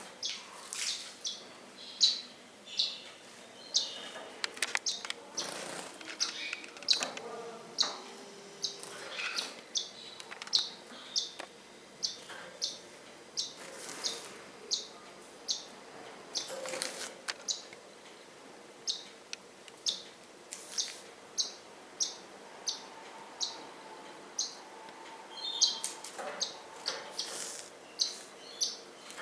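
Birds chirping: one bird repeats a short, high chirp about twice a second, with other, longer calls mixed in now and then.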